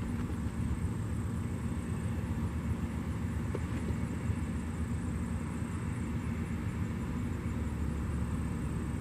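Diesel freight train running with a steady low rumble.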